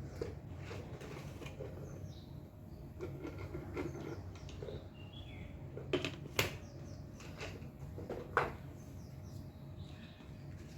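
Faint bird chirps over a steady low hum, with a few sharp knocks, two close together a little past the middle and one more about two seconds later.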